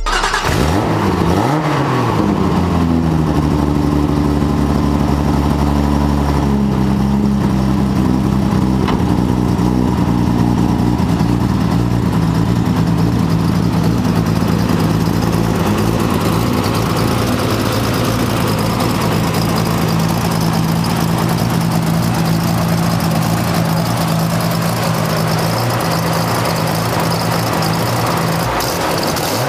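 Turbocharged RB26 straight-six in a Nissan 240SX, fitted with a single Borg Warner S372 turbo, blipped once about a second in and then idling steadily.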